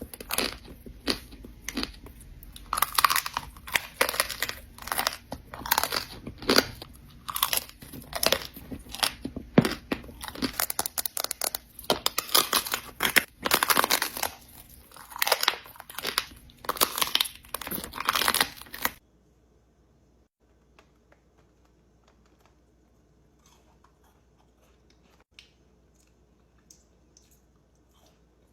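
Close-miked chewing of crunchy food: many loud, irregular crunches in quick succession. It cuts off abruptly about two-thirds of the way through, leaving only faint small clicks and taps.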